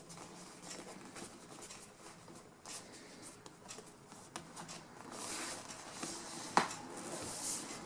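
Upholstery cover pieces handled and marked by hand: light rustling and faint scratches and taps, with one sharp click about six and a half seconds in.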